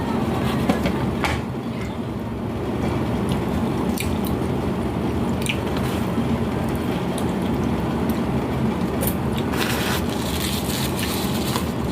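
Knife slicing raw chicken, with wet squishing and scattered short clicks, over a steady low rumble.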